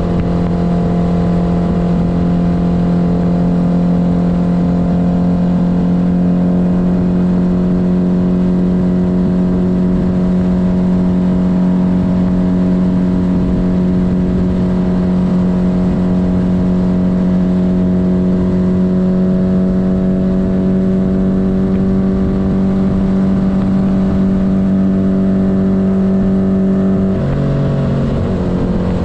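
1972 Honda CB500's air-cooled inline-four engine running at a steady cruise while being ridden, its note edging slightly higher over the middle of the stretch. About two seconds before the end the pitch drops suddenly and then climbs back up.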